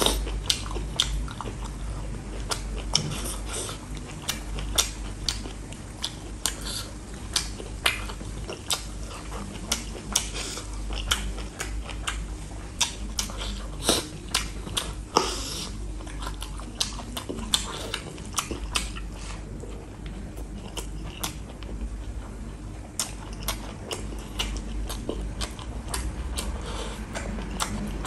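Close-up chewing and biting of a mouthful of beef, greens and rice eaten by hand, with many short sharp clicks and smacks at an irregular pace.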